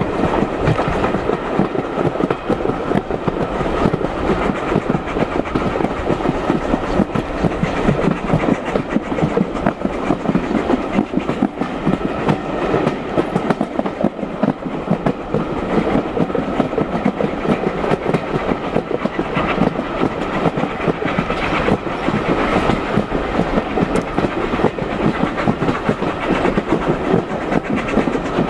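Heritage railway carriage running along the line, its wheels clattering steadily over the rail joints.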